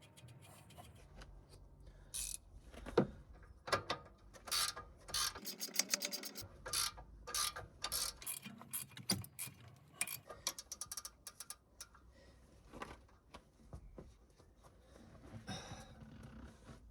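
Ratchet spanner clicking in short, quick runs as a bolt is worked, with scattered metallic clicks and knocks of tools in between.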